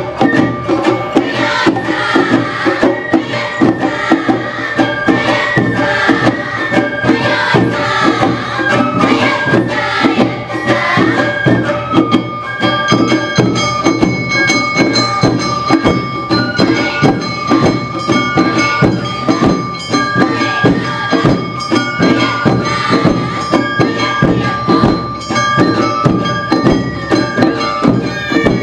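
Live Awa Odori dance music: drums and a metal gong beating a steady, driving rhythm under a high, held melody line of the kind played by Awa Odori bamboo flutes and shamisen.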